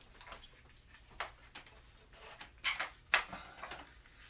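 A few sharp clicks and taps of refrigerator magnets and papers being put up on a refrigerator door: one click about a second in, then a quick cluster of three near the three-second mark, the last the loudest.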